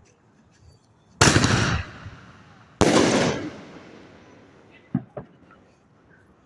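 Fireworks going off: two loud bangs about a second and a half apart, each trailing off briefly, followed by two faint pops about five seconds in.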